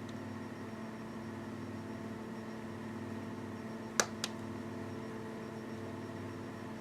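Wood fire burning in a wood stove, with two sharp pops about four seconds in, a quarter second apart, over a steady hum.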